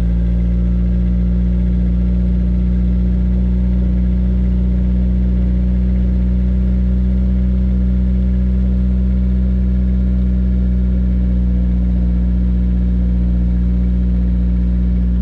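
Honda S2000 AP1's 2.0-litre inline-four idling steadily through a test pipe and Magan Racing dual exhaust, close to straight-piped: a loud, even, deep exhaust note.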